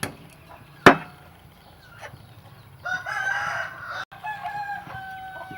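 Rooster crowing: a long crow that starts about three seconds in and is drawn out, then dips at the end. A single sharp knock about a second in is louder than the crow.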